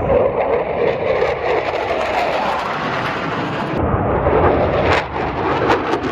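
Loud noise of military aircraft flying past at an airshow. It changes abruptly about two-thirds in, with a few sharp crackles near the end.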